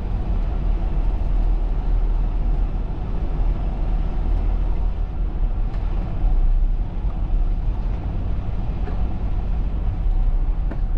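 Semi truck's diesel engine running steadily, heard from inside the cab as a continuous low-pitched drone.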